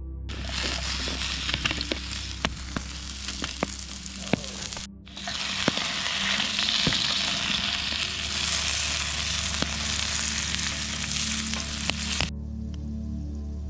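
Food sizzling and frying in a carbon steel pan over a campfire, a steady hiss with scattered sharp pops. It breaks off briefly about five seconds in, resumes, and cuts off suddenly near the end, leaving soft background music.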